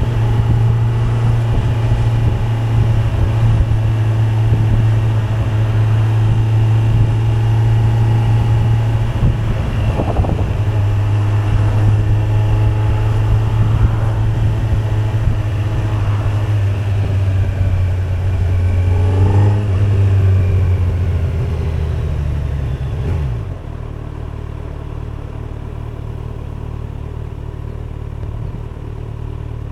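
Kawasaki Z900's 948 cc inline-four engine running steadily, with shifts in pitch about ten seconds in and again around twenty seconds, then dropping suddenly to a quieter steady sound about twenty-three seconds in.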